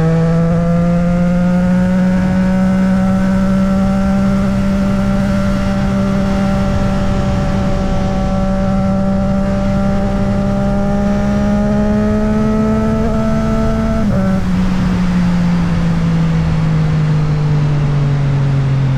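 Motorcycle engine running under steady throttle while riding, its pitch climbing slowly, then dropping suddenly about fourteen seconds in and winding down as the bike slows, over steady wind rush.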